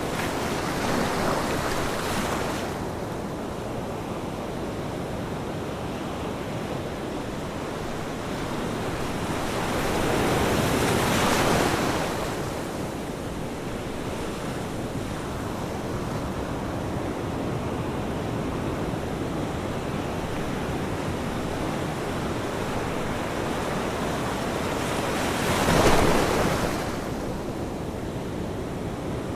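Ocean surf washing steadily on a shore. Three larger waves break and swell above it: one near the start, one about ten seconds in, and a sharper, louder one near the end.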